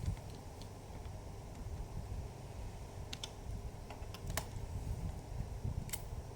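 A few sharp separate clicks and taps from handling a laptop's plastic case and parts, over a steady low rumble.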